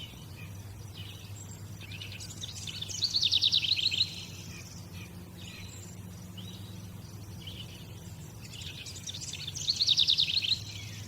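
A songbird singing two song phrases about six seconds apart. Each phrase starts with a few soft notes and builds into a fast trill that falls in pitch. A steady low hum runs underneath.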